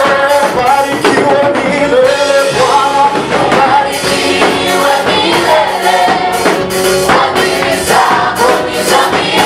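Church choir singing a gospel praise song with instrumental backing and a steady beat.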